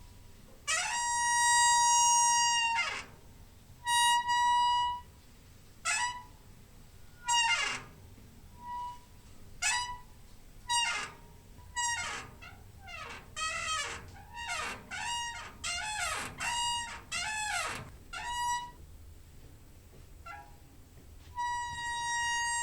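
Door hinge squeaking in a series of pitched creaks. A long steady squeak comes near the start and another near the end, with a run of short squeaks sliding up and down in pitch in the middle.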